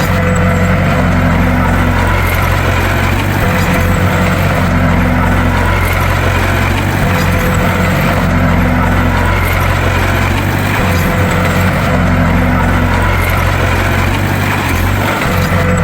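Bulldozer's heavy diesel engine running steadily, with a slight swell in its note about every four seconds.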